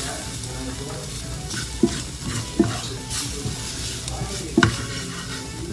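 A utensil stirring flour gravy in a sizzling pan, with three sharp clinks of the utensil against the pan.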